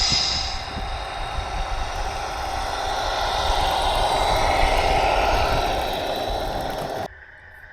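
Electric motor and gearbox of a radio-controlled model construction vehicle whining steadily, growing a little louder in the middle and cutting off abruptly near the end.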